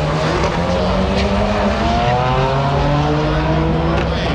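Car engines running: a low steady engine drone, with another engine's pitch climbing slowly through the middle.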